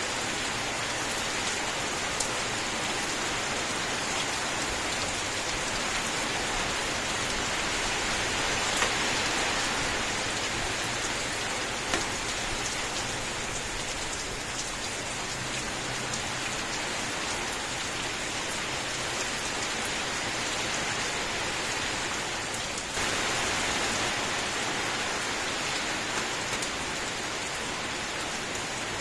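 Steady rain falling: an even hiss of rain on a surface with a few sharper single drop hits, growing suddenly louder about 23 seconds in.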